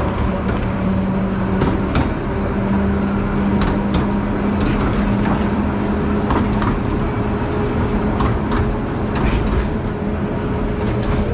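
Small narrow-gauge forest railway train running slowly, heard from a passenger car: a steady rumble with an even hum and scattered clicks of the wheels on the rails.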